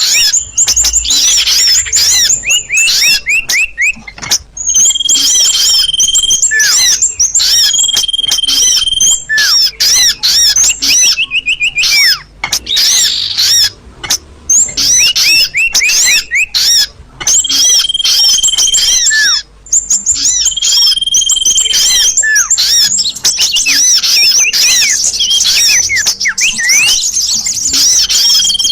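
A loud bird-lure recording of small songbirds played back: dense, rapid high chirps and trills without a break, and a held whistled note that comes back several times.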